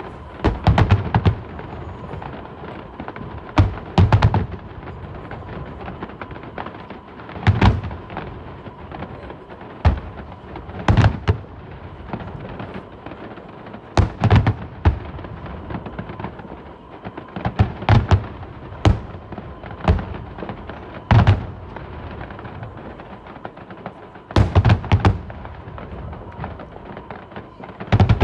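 Fireworks display: shells bursting with sharp bangs every second or two, several coming in quick clusters, over a steady background noise.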